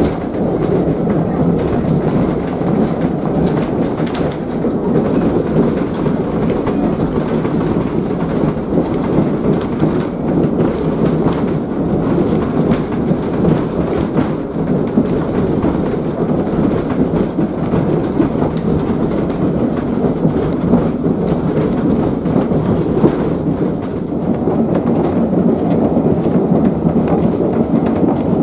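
A heritage railway carriage running along the track, heard from on board: a steady noise of wheels on rails.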